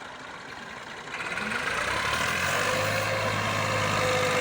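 Massey Ferguson 240 tractor's diesel engine running, getting louder about a second in and then holding a steady note, with a steady high whine above it from about halfway through.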